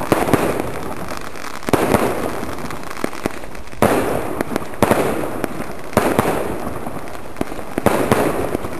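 A homemade combined set of fireworks going off: sharp bangs at uneven intervals, roughly one to two a second, over a continuous crackle and hiss.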